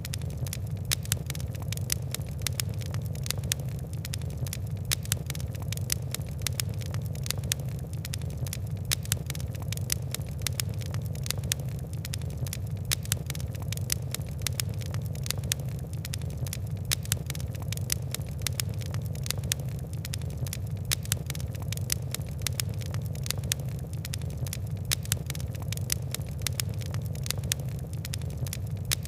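Fire crackling: many sharp little pops and ticks, several a second, over a steady low rumble of burning.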